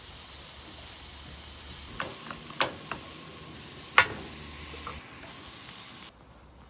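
Food sizzling in a frying pan, a steady hiss, with a few sharp clicks or knocks about two to three seconds in and a louder one about four seconds in. The sizzle cuts off suddenly near the end.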